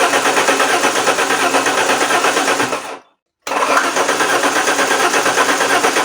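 Starter motor cranking the Alfa Romeo 164's 2.0 V6 turbo Busso engine in two attempts with a fast, even pulse. The first attempt cuts off about three seconds in, and the second starts half a second later. The engine is hard to start, which the mechanic puts down to petrol beginning to flood the combustion chambers.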